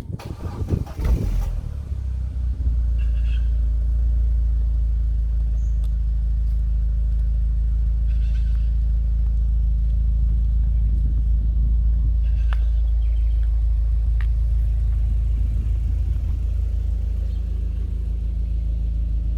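2004.5 Audi A4 1.8T Quattro's turbocharged four-cylinder engine, fitted with a Milltek sport exhaust, starting from cold: a short loud burst as it cranks and catches, then it settles into a steady, low-rumbling cold idle.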